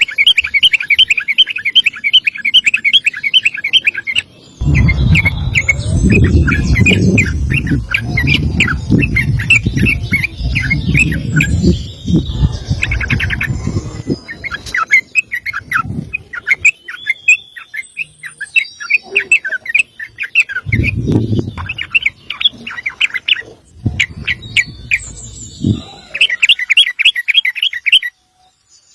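Yellow-vented bulbul (trucukan) singing in long runs of rapid, sharp repeated notes, broken by short pauses. A low rumble lies under parts of the song.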